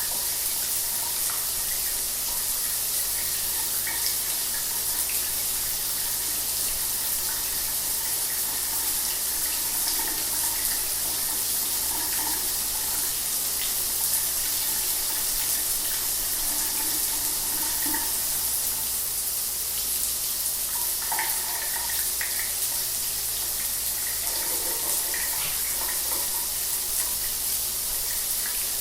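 Shower water running steadily, a constant hiss of spray with faint splashes.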